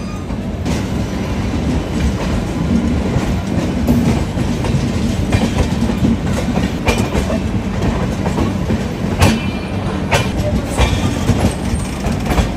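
Two passenger trains running side by side on parallel tracks: a steady low rumble of wheels and coaches, with irregular sharp clacks as the wheels cross rail joints and points.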